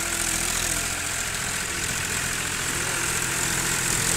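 Powertrac 434 tractor's diesel engine running steadily at low revs.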